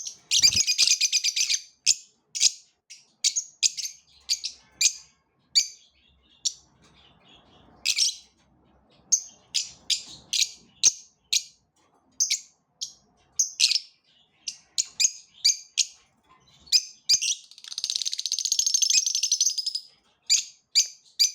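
Small birds chirping: a string of short, high chirps about every half second, broken twice by a longer rapid chattering trill, one right at the start and one near the end.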